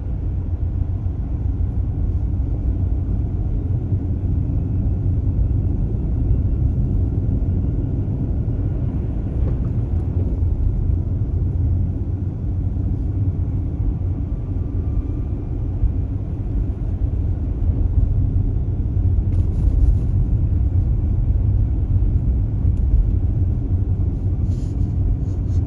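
Steady low road and tyre rumble of a Tesla Model S driving, with no engine note from the electric drive. A few faint clicks come in the last few seconds.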